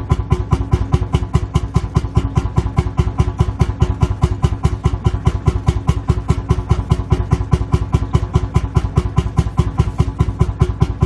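Lanz Bulldog tractor's single-cylinder two-stroke hot-bulb engine idling, a steady slow chug of about five beats a second.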